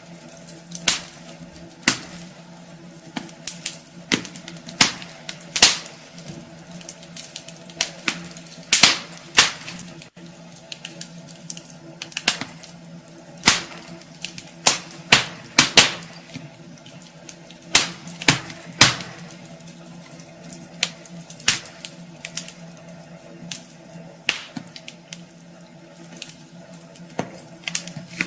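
Wood fire crackling in a fireplace: irregular sharp pops and snaps of burning logs, some louder than others, over a faint steady low hum.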